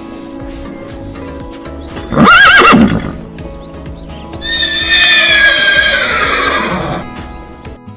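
Horse whinnying twice: a short wavering call about two seconds in, then a long neigh that slowly falls in pitch from about halfway through.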